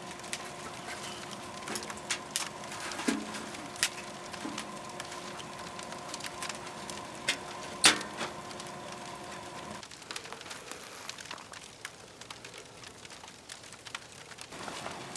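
Wood fire crackling with irregular sharp pops, one loud pop about eight seconds in. A faint steady hum underneath cuts off about ten seconds in.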